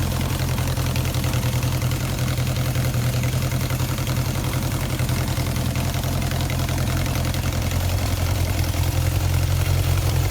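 1977 Honda CB750K's air-cooled inline-four idling steadily on partial choke while it warms up after a cold start.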